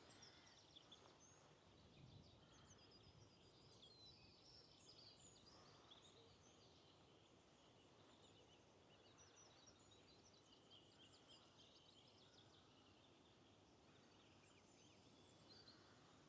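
Faint birdsong: many small birds chirping and trilling, scattered throughout, over a low, steady rush of running water from a stream.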